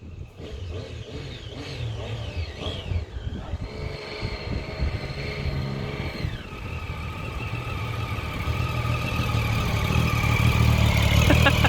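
Motorcycle engine revving and accelerating. Its pitch climbs and falls over the first few seconds, holds steady, drops about six seconds in, then the engine grows steadily louder until it cuts off suddenly at the end.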